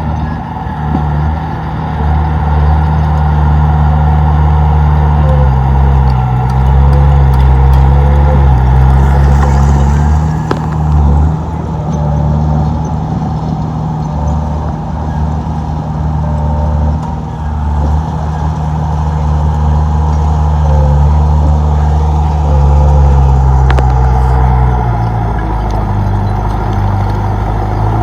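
Komatsu D31P bulldozer's diesel engine running hard. Its pitch dips and recovers several times as the load comes and goes, then settles lower near the end.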